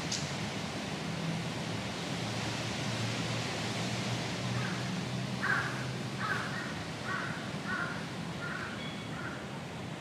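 A bird calling: a run of about seven short calls, roughly half a second apart, over a steady background of hiss and low hum.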